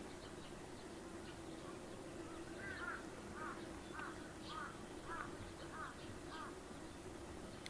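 A bird calling a run of about eight short, arched notes, roughly one every half second, beginning a couple of seconds in. Underneath are a faint steady hum and a soft outdoor hiss.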